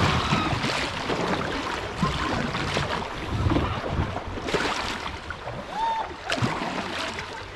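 Kayak paddle strokes dipping and splashing in the river, a sharp splash every second and a half to two seconds, over wind buffeting the microphone.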